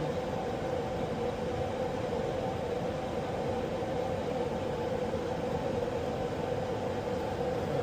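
Pratt & Whitney aircraft engine running steadily during a ground run: an even drone with a steady hum.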